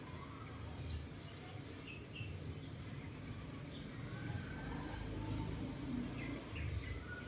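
Outdoor background noise with a low rumble and scattered short, faint bird chirps.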